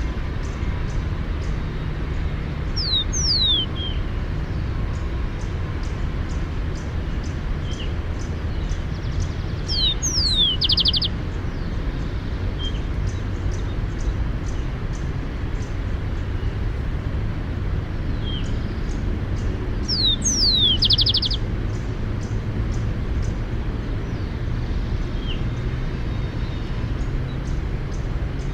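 Rufous-collared sparrow singing: phrases of slurred, falling whistles, two of them ending in a quick even trill, repeated about every ten seconds over a steady low rumble.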